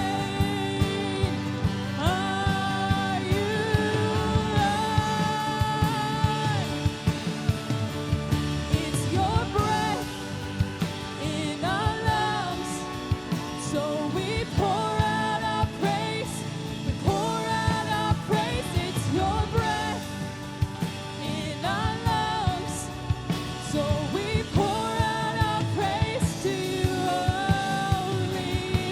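Worship band playing a song, with a singer holding long notes over the band and a steady beat.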